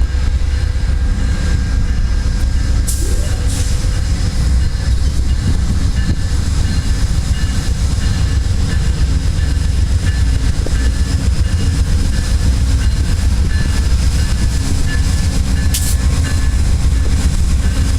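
A train rolling past, a loud steady rumble of wheels on the rails.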